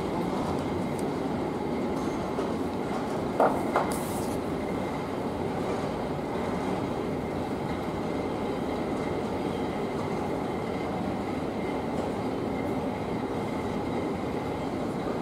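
Steady rumble of a moving train car heard from inside the carriage, with two short sharp knocks about three and a half seconds in.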